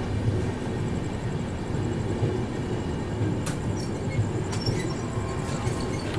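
Lucknow Mail express train rolling slowly into a station stop: a steady low rumble of wheels on track, with a faint high whine for a couple of seconds and a single click about three and a half seconds in.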